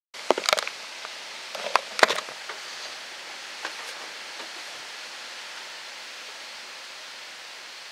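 A few sharp clicks and knocks in the first two seconds over a steady background hiss, with fainter ticks later; no engine is running.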